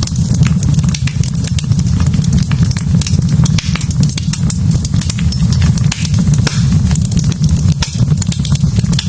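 Wood fire in a fireplace, crackling with many small irregular pops and snaps over a steady low rumble.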